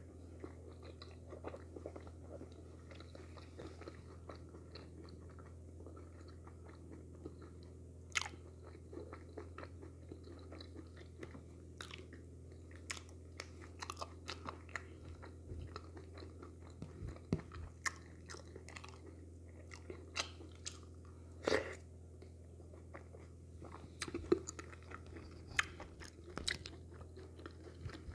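Close-miked chewing and mouth sounds of someone eating wheat fufu and okra soup by hand, broken by scattered sharp clicks. A steady low hum runs underneath.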